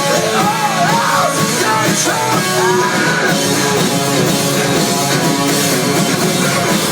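Rock band playing loud and live, with guitars and a melody line that bends up and down in pitch during the first few seconds.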